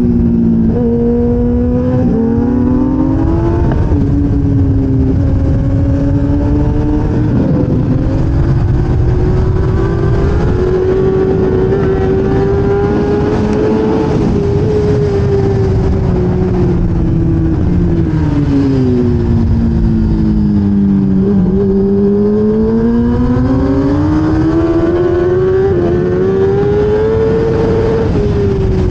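1000cc racing motorcycle engine heard onboard at full race pace. It climbs in pitch through the gears with short drops at each upshift, falls steadily as the bike slows for a corner about two-thirds of the way through, then climbs again and drops once more near the end.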